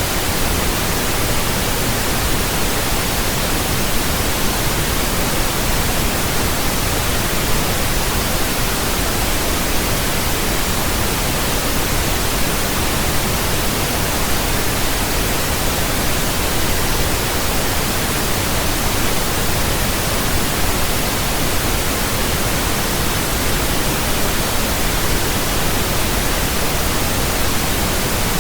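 Steady pink noise: an even, unbroken hiss spread across all pitches, deeper than white noise.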